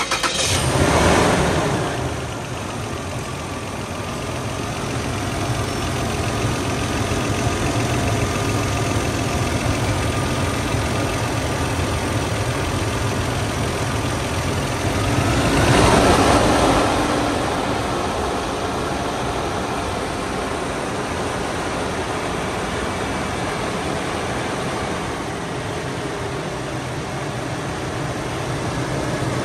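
Toyota Land Cruiser 80 Series 4.5-litre straight-six petrol engine just after starting: the revs flare up in the first couple of seconds, then it settles to a steady idle. About 16 seconds in, the sound swells briefly and falls back.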